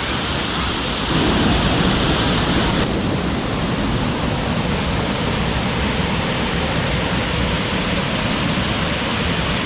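Waterfall pouring: a loud, steady rush of falling water that swells a little about a second in.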